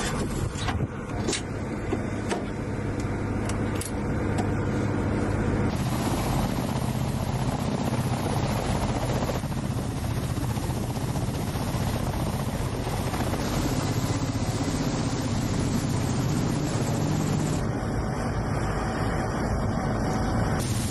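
Ka-52 attack helicopter's engine and coaxial rotor noise, a steady loud drone with a low hum and dense rushing noise. It is broken by a few sharp clicks in the first few seconds, and its character changes abruptly several times.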